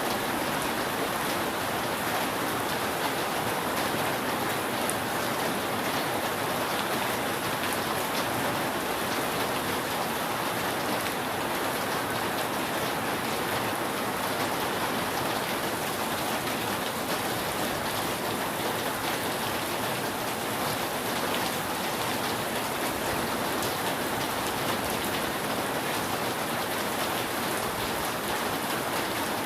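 Steady rain falling on a roof: an even hiss of many drops, with no thunder.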